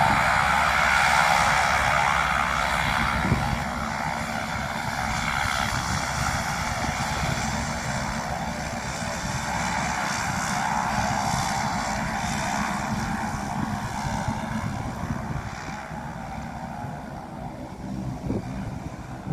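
Airplane engines running, loudest at the start and fading gradually as the aircraft moves away.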